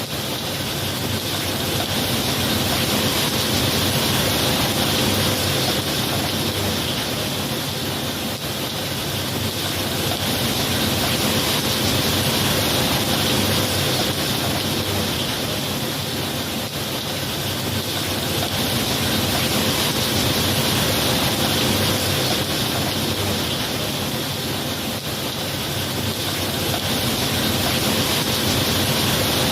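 Steady rain falling, a dense even hiss that swells and eases slowly, with no thunder clap.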